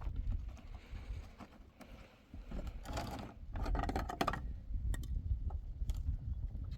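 Scattered light clicks and taps, bunched in the middle, over a steady low rumble.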